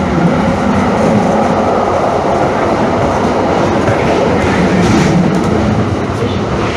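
Calgary CTrain light-rail train running along the track, a steady, continuous running noise.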